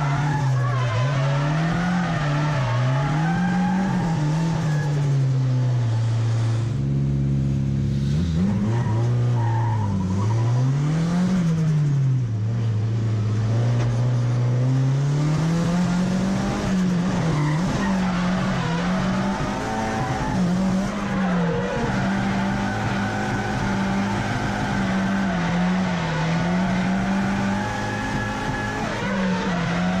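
Drift car engine being worked hard, its note rising and falling every second or two as the throttle is blipped and held through a drift, over a steady hiss of sliding, squealing tyres. Around seven seconds in the engine settles briefly into a steadier, lower note before climbing again.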